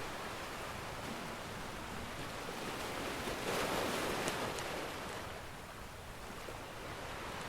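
Ocean surf washing in steadily, one wave swelling to its loudest about halfway through and then drawing back, with a few faint crackles from a wood fire.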